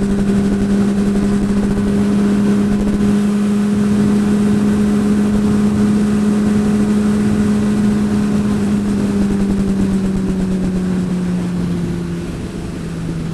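Honda CBR sport bike engine holding a steady pitch while riding, with wind rushing past. Near the end the engine note drops a little as the bike eases off.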